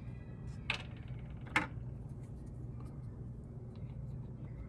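Two short plastic clicks from handling a small action-figure hat on a figure's head, over a steady low hum.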